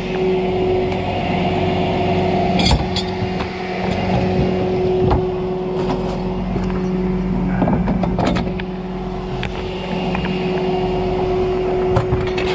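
A tow truck's engine runs steadily with an even hum, broken by a few sharp knocks and clunks, one about a third of the way in and a cluster past the middle.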